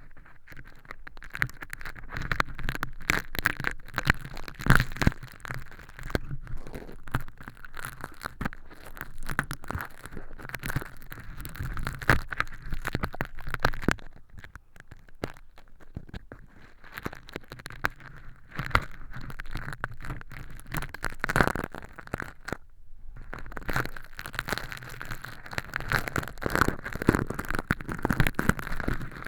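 Tweezers picking at and peeling crinkly crushed-hologram film, used as fake crispy earwax, inside a silicone ear model close to the microphone: dense crackling and crinkling, with two short pauses.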